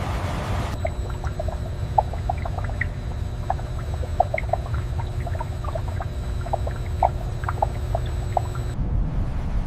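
Liquid pouring and dripping, with many scattered short plops, over a steady low machinery rumble. A faint high steady whine runs with it and cuts off near the end.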